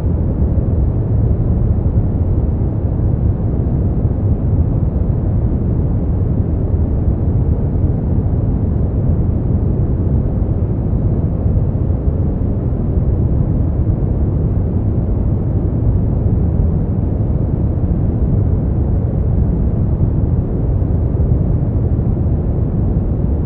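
Steady brown noise: an even, deep hiss with most of its weight low down, unchanging in level.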